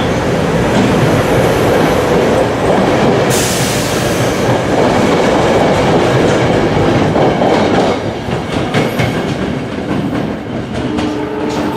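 A SEPTA electric commuter train running close by through the station, its wheels clacking over the rail joints. A sudden burst of hiss comes in about three seconds in, and the noise eases off about eight seconds in.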